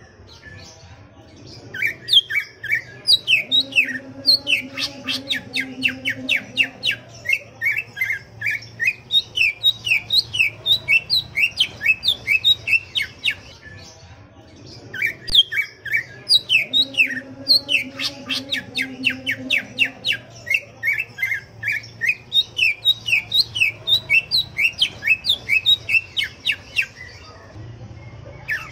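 Cucak ijo (green leafbird) singing a fast, loud run of sharp chirps and whistled notes, in two long phrases of about twelve seconds each with a short pause between, over a steady low hum.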